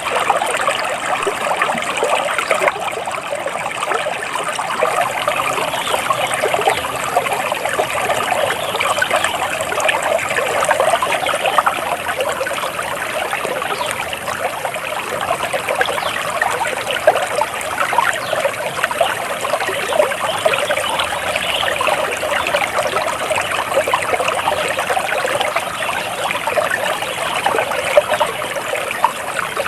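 A small stream flowing steadily, with a continuous trickling, babbling rush of water.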